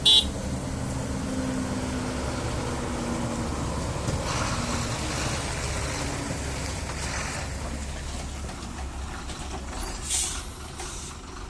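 Heavy truck's diesel engine running on a downhill ghat descent, with air brakes hissing a few times as the driver brakes for the bends. A short, loud burst comes right at the start.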